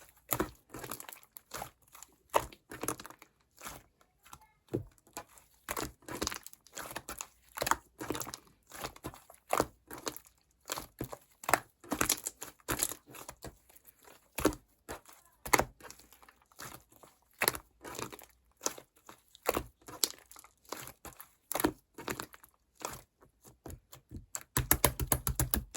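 Hands squishing, stretching and pressing slime, making irregular sticky clicks and pops, with a fast run of crackling clicks near the end.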